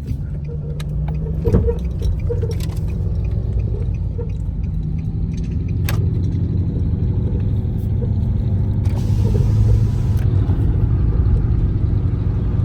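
Chrysler 300's Hemi V8 running, a steady low rumble heard from inside the car, with a few light clicks. The engine is running on a jump-start, with a battery that the jumps are not charging enough.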